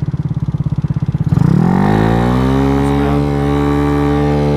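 Dongfang DF50SST scooter's 88cc big-bore four-stroke engine running at low revs with a pulsing beat, then about a second in the throttle opens and the revs climb quickly and settle into a steady high note under acceleration.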